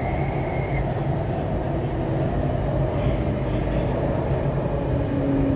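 MTR East Rail Line R-Train electric multiple unit running, heard from inside the carriage: a steady rumble of wheels and running gear with faint motor tones, including a brief high tone in the first second.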